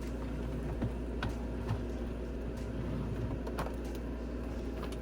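Scattered light clicks and taps of plastic makeup containers being handled and set down, about six over a few seconds, over a steady low hum.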